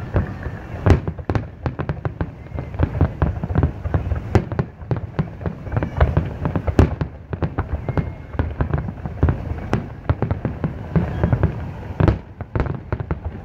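Fireworks display: a dense, irregular barrage of bangs and pops, several a second, over a low rumble.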